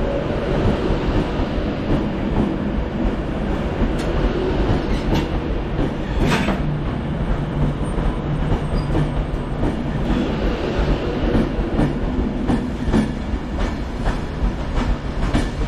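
Class 390 Pendolino electric train moving out of the station with a steady rumble, its wheels clicking over rail joints and pointwork, one click louder about six seconds in.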